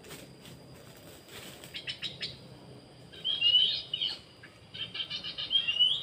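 A bird calling in two loud bouts, about three and five seconds in, each a rapid run of chirping notes ending in a rising whistle. A few sharp clicks come just before, about two seconds in.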